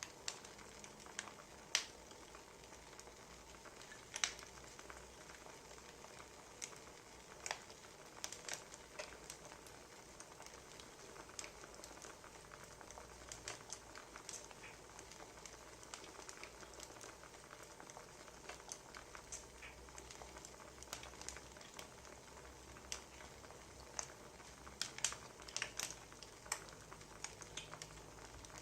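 Wood fire crackling: a soft steady hiss with irregular sharp pops and snaps of burning firewood, coming more thickly near the end.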